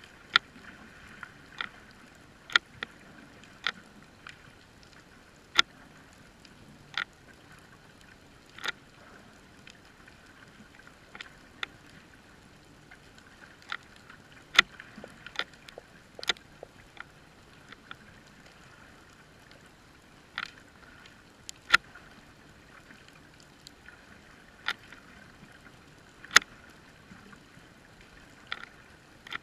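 Underwater sound heard through a GoPro's waterproof housing: a faint steady hiss with irregular sharp clicks and snaps, about one or two a second, some much louder than the rest.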